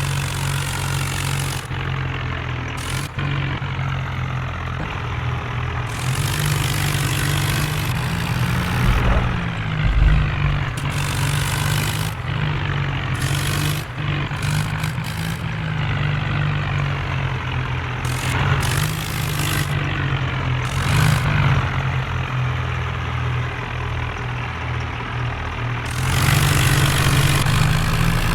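Tractor diesel engines running steadily, their pitch rising and falling a little as the throttle changes, with the loudest swells about nine to ten seconds in and near the end.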